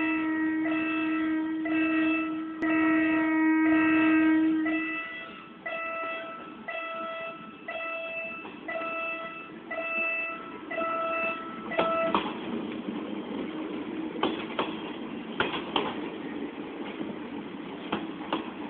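Level-crossing warning bell ringing about once a second, with a train horn held on one long steady note for the first five seconds or so. About twelve seconds in, the Kiha 52 train set reaches the crossing and rolls past: rumbling, with sharp clacks of wheels over rail joints.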